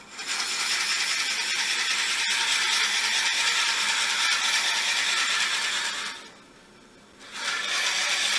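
Drill bit boring into very wet sweet gum spinning on a wood lathe, a steady noisy cutting sound that stops about six seconds in and starts again a second later.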